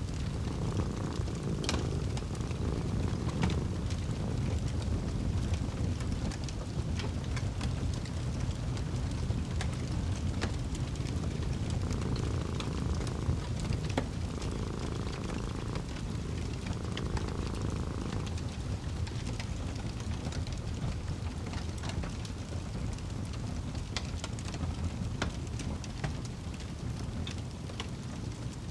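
Wood fire burning in a fireplace, a steady low rumble with scattered sharp crackles and pops. A cat purring comes through in a few spells of a second or two each, near the start and again in the middle.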